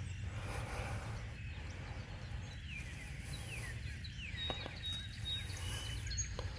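Small birds chirping: many short descending chirps and a few thin, high whistled notes, over a steady low rumble.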